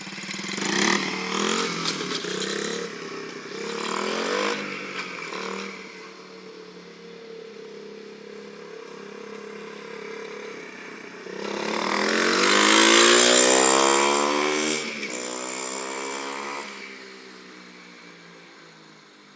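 Small 110cc dirt bike engine running as it is ridden, revving up and down. It climbs in pitch to its loudest about two-thirds of the way through, then drops in pitch and fades.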